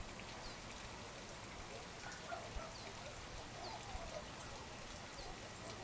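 Faint evening bird calls outdoors: short, high chirps that sweep downward, repeated every second or two, with a few lower calls in the middle, over a steady hiss.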